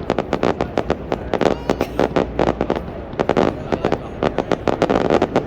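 Aerial fireworks going off in a rapid string of sharp bangs and crackles, several a second, one after another.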